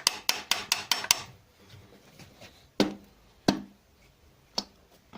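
Metal engine parts and tools clinking in a quick run of sharp clicks for about the first second, then three separate sharp knocks with a short ring, during the teardown of an engine with a spun connecting-rod bearing.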